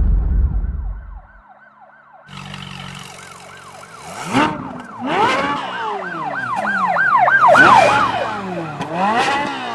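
Emergency-vehicle sirens wailing, several overlapping, each rising and falling in quick repeated arcs and loudest near the end. A low rumble fades out in the first second or so.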